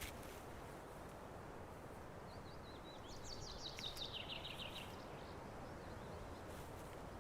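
A bird's rapid series of high chirps, drifting down in pitch, lasting about two and a half seconds from a couple of seconds in, over faint outdoor background hiss.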